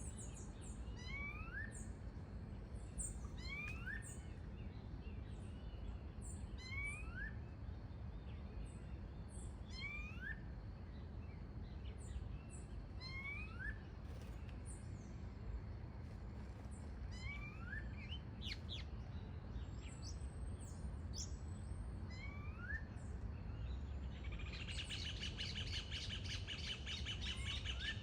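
Wild birds calling: a short rising whistled note repeats about every second and a half, with thin high chirps in between. Near the end a fast, dense trill from another bird starts up over a low background rumble.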